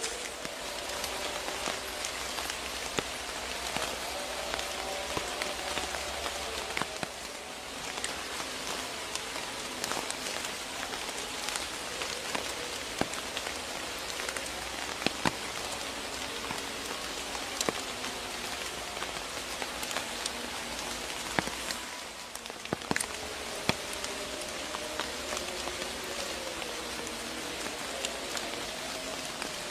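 Steady rain falling, with many separate drops striking sharply on a surface.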